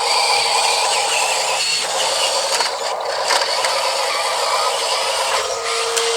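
Huina 1582 1/14-scale RC dump truck's electric motors and gearboxes running steadily, with a few short clicks.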